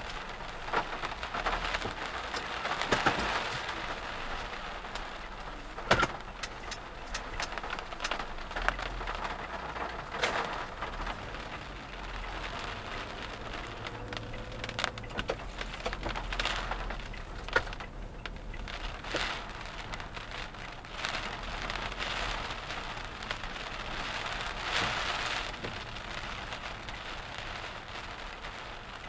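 Rain falling on a car's roof and windscreen, heard from inside the car, with many sharp taps of single heavy drops; the loudest tap comes about six seconds in.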